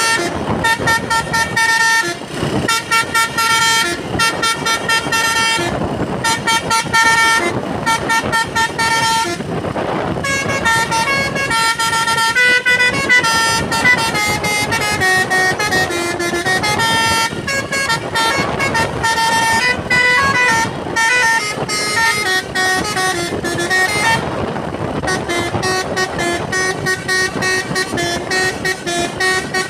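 Basuri multi-tone musical horn on a Hino truck playing a tune: loud chains of short toots that step up and down in pitch, with a few longer held notes.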